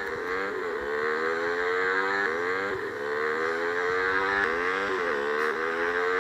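Motorcycle engine accelerating through the gears: its pitch climbs steadily, then drops back at each gear change, several times over.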